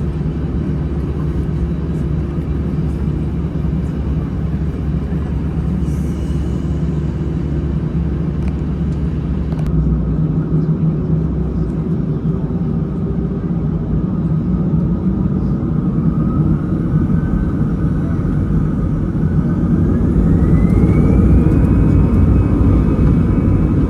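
Airbus A320 cabin heard from a window seat: a steady engine rumble, then from about two-thirds through a rising whine as the engines spool up, and the noise grows louder, the sign of takeoff thrust being set.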